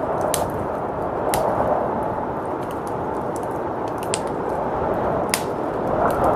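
Wood fire crackling with a few sharp pops over a steady rush of blizzard wind; the wind swells near the end.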